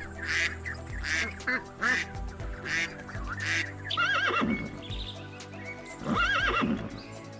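Animal calls over steady background music: a run of five short raspy calls in the first half, then two long wavering calls.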